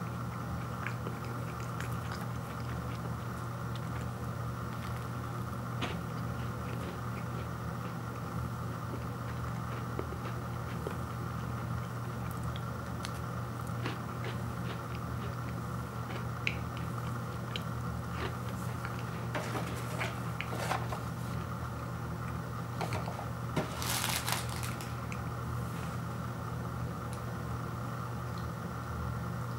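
A person biting and chewing a frosted Pop-Tart toaster pastry, with scattered small crunches, over a steady low hum. About 24 seconds in there is a brief rustle as the cardboard box is moved.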